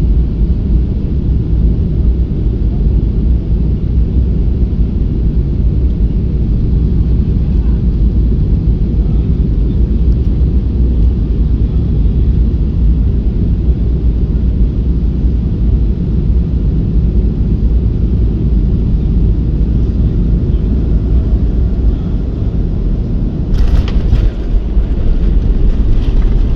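Boeing 737-500 aircraft noise as heard on board during landing: a loud, steady low rumble of engines and airflow. A brief rattling clatter comes near the end.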